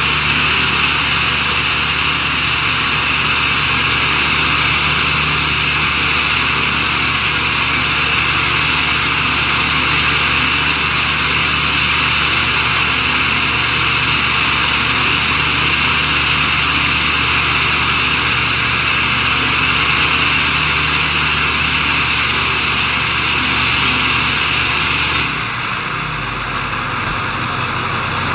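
Ford 7.3-litre Power Stroke V8 turbo-diesel idling steadily as it warms up after a cold start, with a strong high whine over the low engine note. Near the end the engine note steps down lower and the high whine fades, while the engine keeps running.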